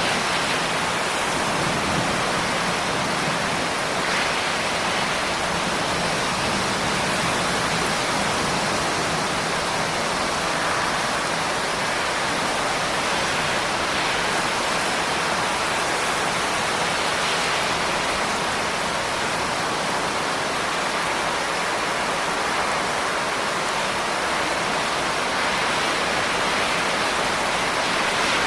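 Steady rain, an even, unchanging hiss with no separate drops or thunder standing out.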